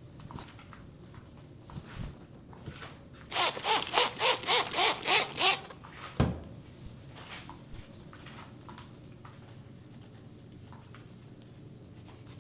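Quick back-and-forth rubbing with a cleaning cloth on a bicycle: a run of about eight strokes at three or four a second, each with a slight squeak. A single dull thump comes soon after, then faint handling ticks.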